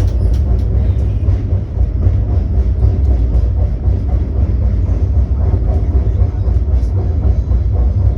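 Steady low rumble of a moving train, with a few faint clicks in the first second.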